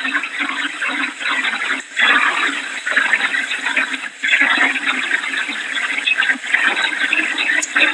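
Hurricane wind and rain rushing in a loud, steady wash of noise, broken by a few brief drops in level.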